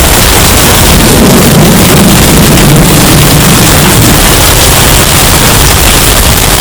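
Hurricane-force wind in a sound-effect recording, bass-boosted and overdriven so that it blows as a continuous, heavily distorted rumbling roar. A deeper surge swells up about a second in and fades again around four seconds in.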